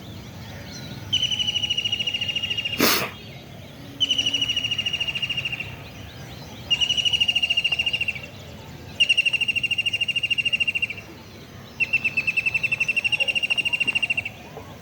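A bird singing a fast, even trill five times, each trill lasting about two seconds with short pauses between. A single sharp click comes about three seconds in.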